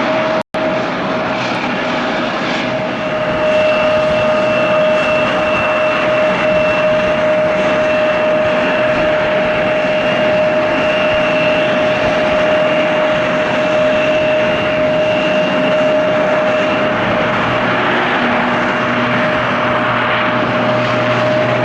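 Japan Air Commuter turboprop airliner taking off, its engines running with a steady whine over the propeller noise. The sound swells about three seconds in, and a lower hum joins near the end.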